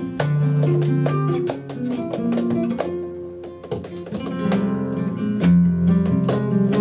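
Flamenco guitar playing alegrías: a busy run of plucked notes and strummed chords. It goes softer a little past the middle, then the strumming comes back fuller and louder.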